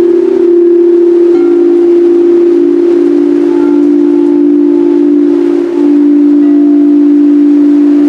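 Singing bowls sounding together in long, overlapping tones, with the blend of pitches shifting every second or two as bowls are played.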